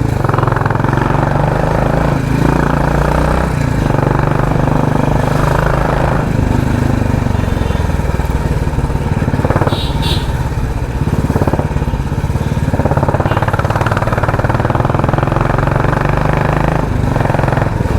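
Royal Enfield Classic 350 single-cylinder engine through a loud aftermarket 'helicopter' exhaust, pulsing steadily while the motorcycle is ridden in slow traffic.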